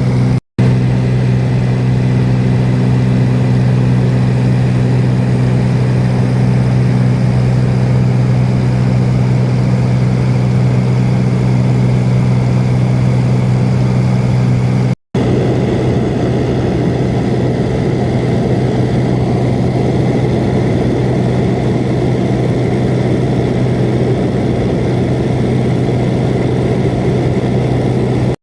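Small seaplane's piston engine and propeller droning steadily and loudly. The sound cuts out for an instant about half a second in and again halfway through, and after the second break the drone is rougher, with its steady tones less distinct.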